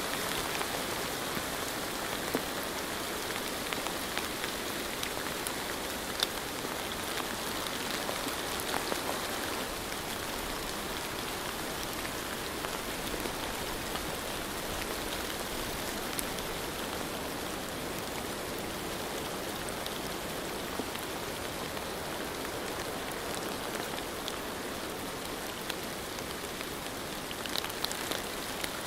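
Steady rain, an even hiss with scattered sharper drop ticks, a few more of them near the end.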